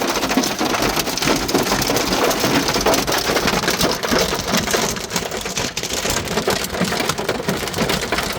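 Hailstones pelting down in a hail storm: a dense, continuous clatter of many small impacts.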